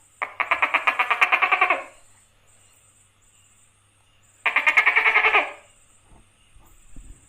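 A gecko calling with two rapid rattling bursts of about a dozen pulses a second. The first lasts about a second and a half; the second, shorter one comes a few seconds later.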